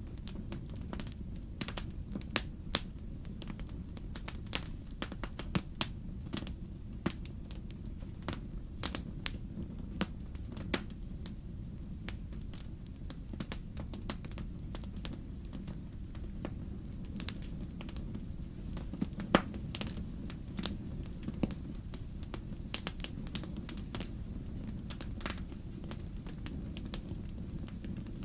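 Wood fire in a fireplace crackling: irregular sharp pops and snaps over a steady low rumble of the flames, with one louder pop about two-thirds of the way through.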